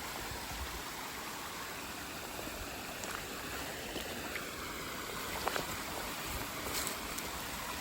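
Creek water running steadily, spilling over and through a beaver dam, with a few faint clicks.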